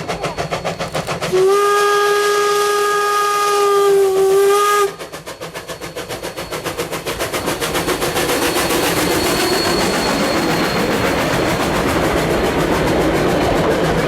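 Rogers-built 1870s steam locomotive K 88 working hard, its exhaust beating at about four chuffs a second. About a second and a half in, it sounds one long steam whistle for about three and a half seconds. Then the chuffing carries on and swells into a steadier rush of exhaust and running noise.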